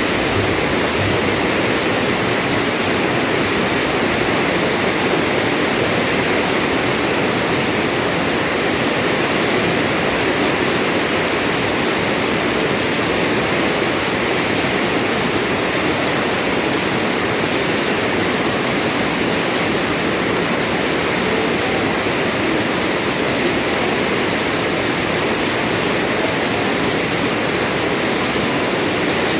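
Steady rain falling, an even rushing noise that holds constant without breaks.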